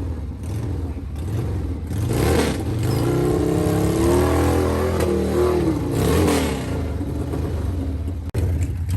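Motorcycle engine revving hard in a rally burnout. The pitch climbs about three seconds in and falls back around six seconds, and the sound cuts off abruptly near the end.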